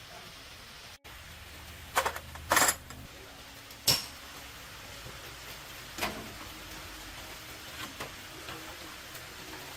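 Sharp metal clanks and clinks of tools and truck wheel parts being handled, a cluster about two seconds in, then single knocks about four and six seconds in and fainter ones later, over a steady low background.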